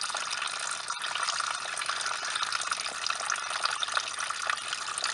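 Engine coolant pouring steadily out of the opened radiator drain of a 1993–97 Toyota Corolla, a continuous stream of running liquid.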